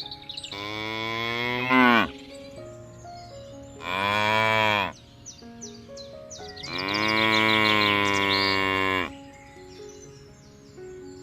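Cow mooing three times: long, loud calls that drop in pitch at the end, the last one the longest. Soft background music with faint bird chirps sounds between the calls.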